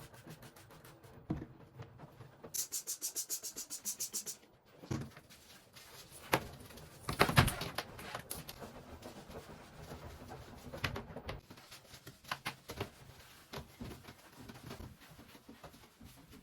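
Knocks and clatter of objects being handled, with a quick run of about ten short, high-pitched rasping strokes around three seconds in; the loudest knock comes about seven seconds in.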